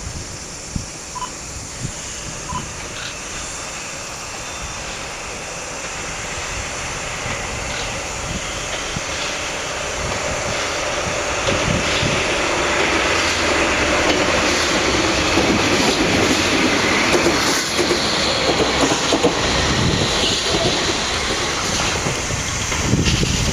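Freight train rolling along the line, its wheel-on-rail noise growing steadily louder as it approaches.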